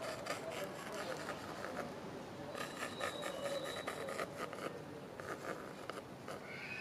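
Pencil scratching on a stretched canvas in clusters of quick short strokes, sketching an outline, with a faint bird call about three seconds in.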